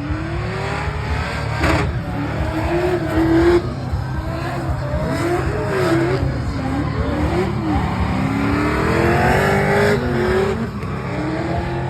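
Drift car engines revving hard, their pitch sweeping up and down over and over, with more than one engine heard at once at times and a long climb in revs near the end.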